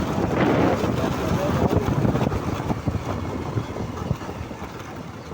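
Wind rushing over the microphone of a moving motorcycle, with road and vehicle noise underneath. The rush is loudest in the first couple of seconds and fades steadily toward the end.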